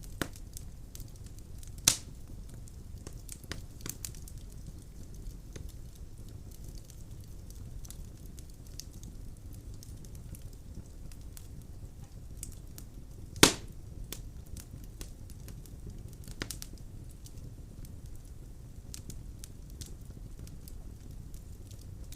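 Wood fire burning in a fireplace, a steady low rumble of flames with scattered crackles and two loud pops from the logs, about two seconds in and past halfway.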